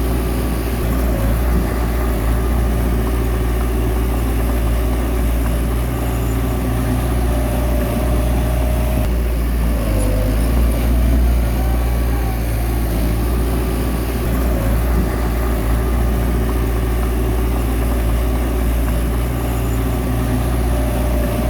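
Bulldozer's diesel engine running steadily with a loud low drone, and a brief higher squeal a couple of times.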